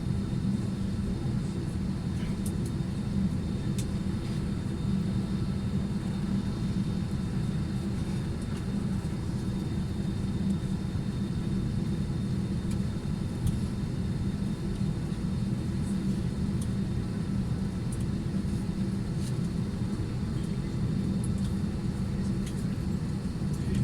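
Steady airliner cabin noise: the even low drone of the engines and air flow heard from inside the passenger cabin, with a faint thin high tone running through it.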